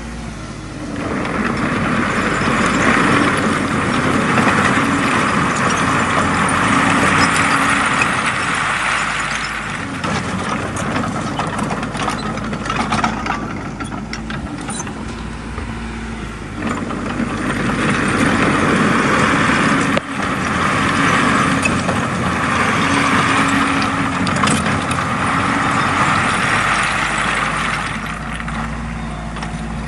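Komatsu D20A bulldozer's diesel engine working as it pushes soil, swelling twice under load for several seconds at a time and easing off between the pushes.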